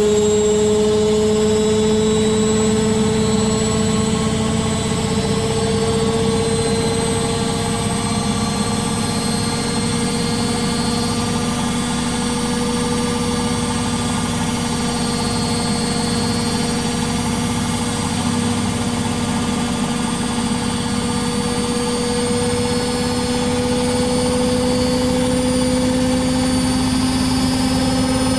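Beko WTG620M1 washing machine running a spin, its motor giving a steady whine that rises slowly in pitch as the drum speeds up, over a low rumble.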